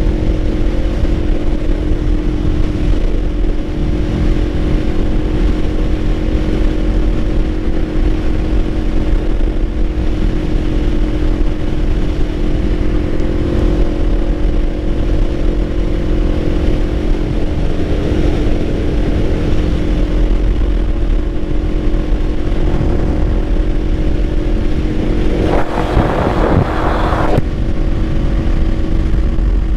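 Kawasaki Ninja 500's parallel-twin engine holding a steady cruising pitch under a strong low rumble, with a brief louder rushing noise near the end.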